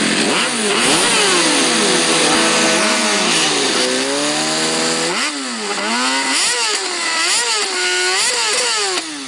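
An engine revving, its pitch dipping and rising again and again over a steady hiss, with the swoops coming faster in the second half.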